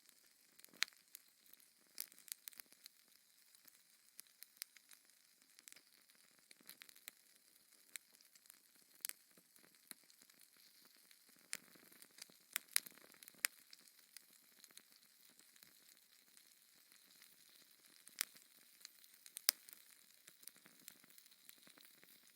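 Fire in a fireplace crackling, with irregular sharp pops and snaps over a soft steady hiss.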